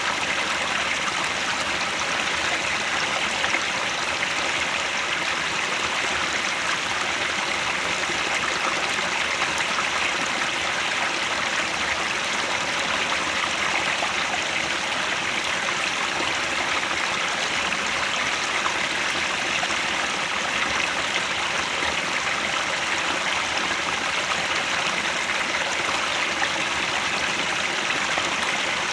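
Headwater stream flowing over rocks: a steady, even rush of water with no breaks.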